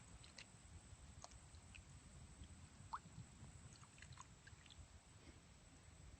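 Near silence, with faint scattered small ticks and one brighter short blip about three seconds in.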